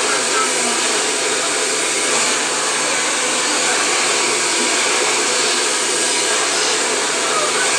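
Hair dryer blowing steadily: an even, unbroken rush of air and motor noise.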